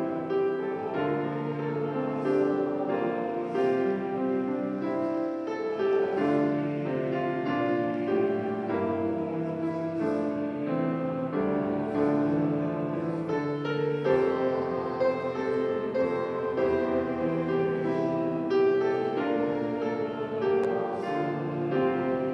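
A keyboard instrument plays slow, sustained chords, changing notes about once a second.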